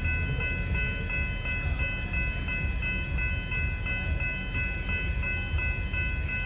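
Level crossing warning bells ringing steadily over the low rumble of an X'Trapolis electric train.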